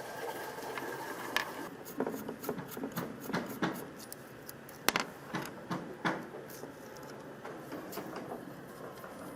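Running water stops about two seconds in. Then come a series of irregular light clicks and knocks, like small hard parts being handled and set down, the loudest about five seconds in.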